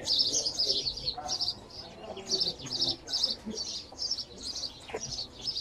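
Small birds chirping in a rapid, steady series of short high notes, about three a second, over a faint murmur of distant voices.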